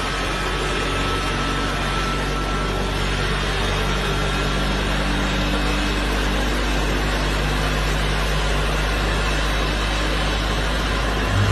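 An engine running steadily: a low, even hum with a hiss over it.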